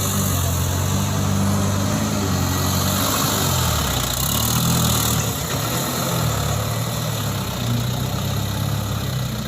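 Isuzu Elf dump truck's diesel engine running steadily, its note wavering and shifting for a couple of seconds around the middle, with a brief rise in hiss.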